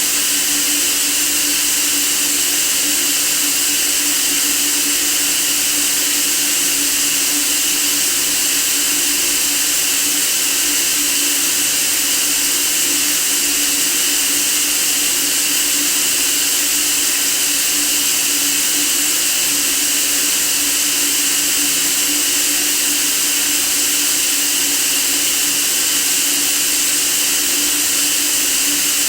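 Steady white noise: an even, unchanging hiss strongest in the high range, with a faint low hum underneath.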